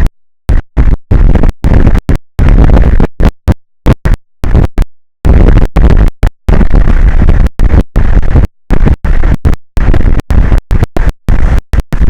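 Loud, overdriven wind noise buffeting an exposed outdoor microphone, heaviest in the low rumble, cutting in and out abruptly many times as the audio drops to silence and snaps back.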